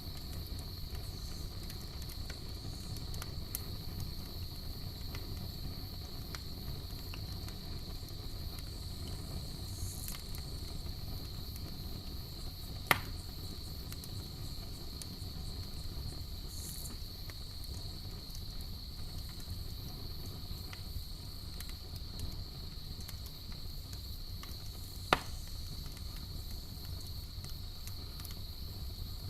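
Campfire burning with a steady low rumble and faint crackle, over a continuous high-pitched trill of night insects. Two sharp, loud pops from the fire stand out, about 13 and 25 seconds in.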